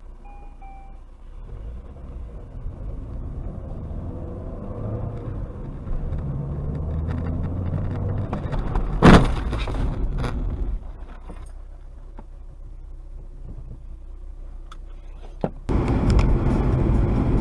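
Car engine and road noise building over several seconds, with a single loud bang about nine seconds in, the sort of impact a collision makes. The noise then drops, and near the end a louder run of road noise starts abruptly.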